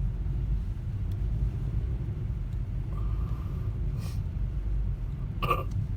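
Low, steady rumble of a car being driven, heard inside the cabin, with a brief sharp sound near the end.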